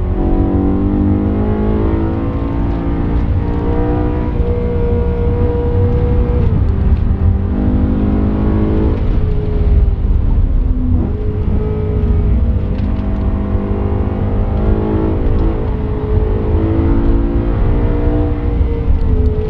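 BMW M3 E92's 4.0-litre V8 at full throttle on a race track, heard from inside the cabin over heavy road and wind rumble. The engine note climbs, drops sharply about six and a half seconds in, and climbs again from about eleven seconds.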